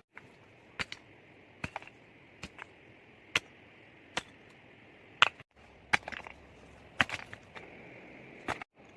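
Wood being chopped: a series of sharp, separate blows, roughly one a second, over a steady high-pitched background hiss.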